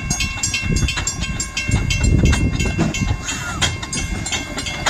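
Train sound: a rapid clickety-clack of wheels over rail joints under a steady, held whistle tone.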